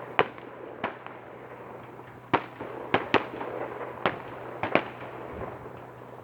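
Fireworks display: a string of sharp bangs, about eight in six seconds and irregularly spaced, over a continuous crackling background.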